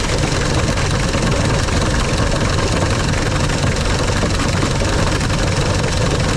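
Car engine idling just after starting, with a rattling clatter from a failing water pump whose pulley wobbles from side to side. The pump has come apart.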